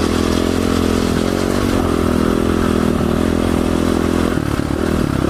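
Dual-sport motorcycle engine running at steady throttle while riding over rough ground, the engine note dipping briefly near the end.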